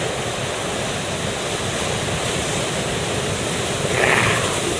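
Steady noise of big surf breaking, with a brief louder rush about four seconds in.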